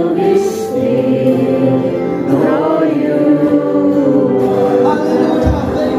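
A group of voices singing a worship song together as a choir, holding long notes that slide gently between pitches. A few low thumps come in near the end.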